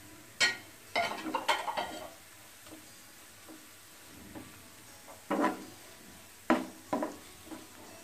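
A utensil stirring and knocking against a cooking pan of carrot-and-potato bhaji. It comes in short clatters: one near the start, a cluster about a second in, then a few more in the second half.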